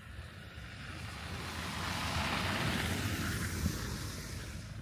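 A vehicle driving past, its tyre and engine noise rising to a peak about halfway through and then fading away.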